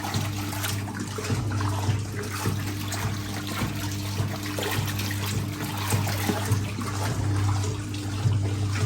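1958 Hotpoint Empress washing machine running with its agitator engaged: a steady electric motor hum under the irregular sloshing and churning of water and towels in the tub.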